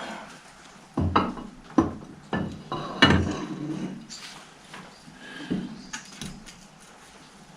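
Metal clanks and knocks on a 1955 Fordson Major's bull pinion and bearing as they are worked into the rear transmission housing: four sharp strikes within about two seconds, the last the loudest with a short ring, then a couple of fainter knocks.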